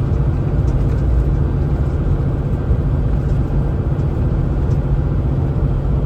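Kenworth T680 semi truck's diesel engine running steadily with road and tyre noise, heard from inside the cab while descending a 6% grade.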